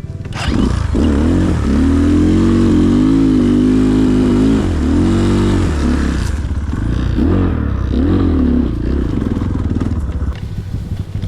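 Enduro motorcycle engine under riding load, revving up and down as the throttle is worked. It gets louder about half a second in, its pitch rises and falls several times, and it eases off near the end.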